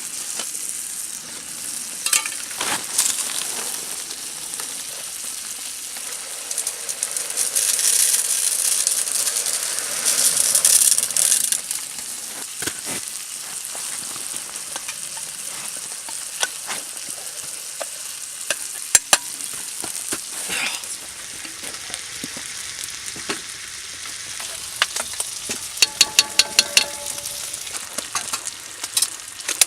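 Food sizzling and frying in a pan over a campfire, with the hiss swelling for a few seconds a third of the way in. Scattered sharp clicks, and a quick run of light taps near the end.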